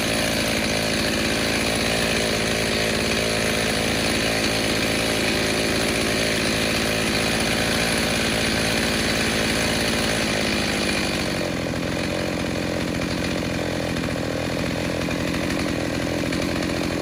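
Stihl 029 chainsaw, rebuilt with a 45 mm piston and cylinder, running steadily at high revs. About eleven seconds in its pitch drops a little and settles lower.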